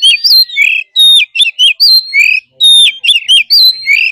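Oriental magpie-robin singing its wild-type song: a loud, fast run of whistled notes and slurred glides, in short phrases that repeat with brief gaps.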